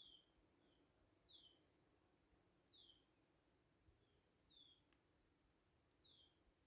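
Faint bird calls in a steady repeating pattern: a short high, level note alternating with a short falling note, each pair about a second and a half apart, over a faint low background hum.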